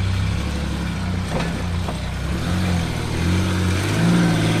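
A four-wheel-drive vehicle's engine running at low speed on an off-road track. Its note shifts about halfway through and rises near the end as the throttle is worked.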